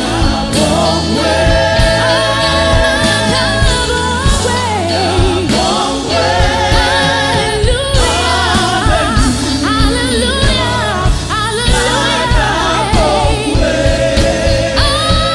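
Gospel choir singing a worship song, with held, wavering notes over instrumental backing that has a stepping bass line.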